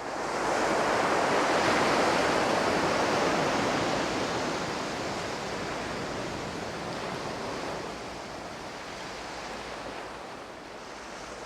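Steady rushing of water that swells over the first two seconds and then slowly fades.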